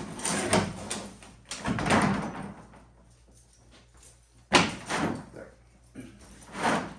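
Handling noises: several short scraping, rattling bursts and knocks, the loudest a sudden knock about four and a half seconds in.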